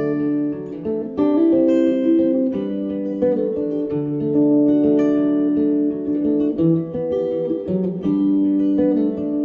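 Acoustic guitar strumming chords in an instrumental outro, with a fresh chord struck near the end.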